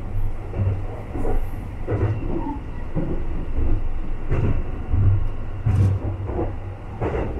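Sunrise Izumo sleeper train (285 series electric multiple unit) heard from inside the carriage while running: a steady low rumble broken by irregular knocks as the wheels pass over track joints.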